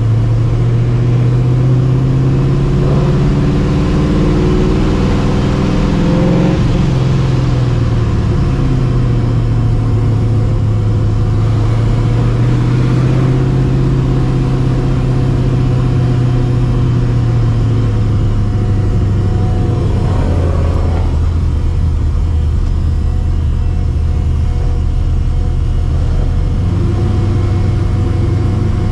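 Cammed, Procharger-supercharged 5.4-litre V8 of a 1999 Mustang GT cruising at low speed, its engine and exhaust note rising and falling gently with light throttle.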